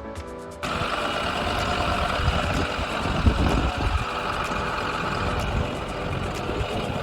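2011 International DuraStar 4300 truck's diesel engine running with a rough low rumble, coming in suddenly about half a second in.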